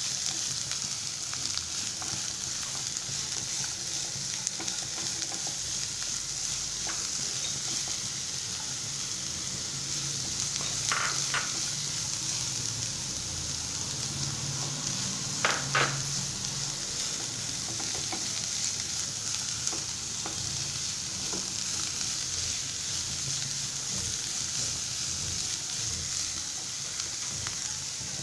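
Sliced onion, green beans and carrots frying in oil in a nonstick pan while a silicone spatula stirs them: a steady sizzle with the soft scrape of stirring. Two brief louder sounds come about halfway through.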